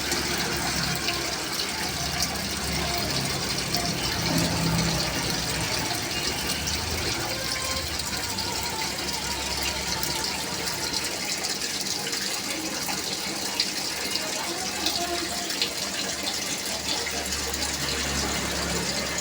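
Water falling steadily onto the surface of a fish tank like rain, a continuous splashing hiss with fine drip-like ticks.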